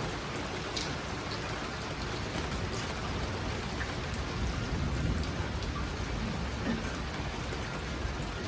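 Heavy downpour of rain, a steady hiss with scattered drops pattering on surfaces, and a low rumble that swells about halfway through.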